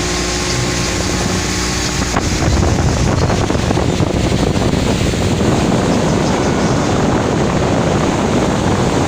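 Motorboat engine running with a steady hum. About two seconds in, a louder rush of wind on the microphone and water noise takes over, covering the engine.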